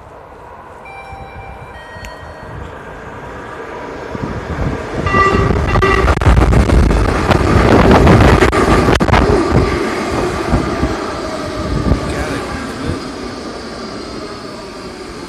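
Baltimore Metro subway train running on the rails as it approaches the station. Its horn sounds briefly about five seconds in. The rumble of the wheels swells to its loudest about eight seconds in, then eases as the train slows, with a faint high squeal near the end.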